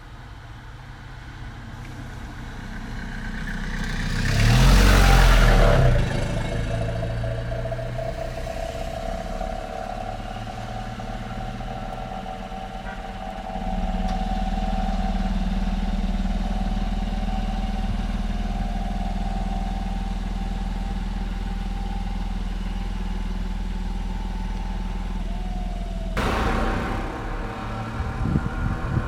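Road vehicle engines: a vehicle passes close about five seconds in, then an engine runs steadily, stepping up in loudness about halfway through.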